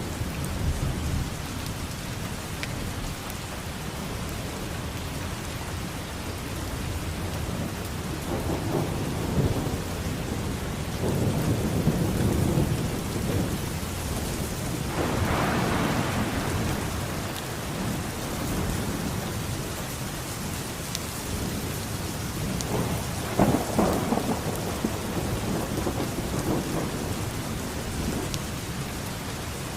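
Steady rain falling, with rolls of thunder rumbling through it: the loudest peal swells about halfway through, and a crackling rumble comes near the end.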